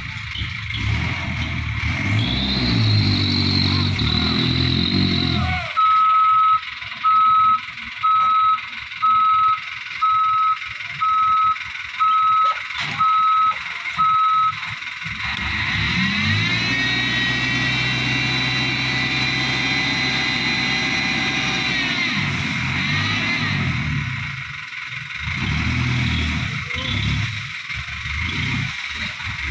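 Hino Dutro dump truck's diesel engine running and changing pitch, then its reversing alarm beeping eight times, about once a second. After that the engine revs up, holds high for several seconds and drops back.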